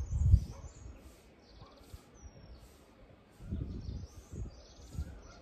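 Small birds chirping and twittering in short, trilled calls. Low rumbles break in at the start, the loudest moment, and again about three and a half seconds in.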